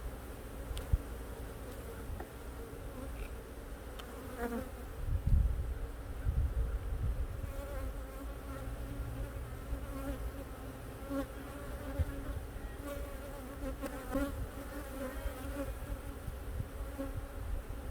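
Honey bees buzzing around an opened hive: a steady hum. A low rumble comes about five to seven seconds in, and there are a couple of sharp clicks.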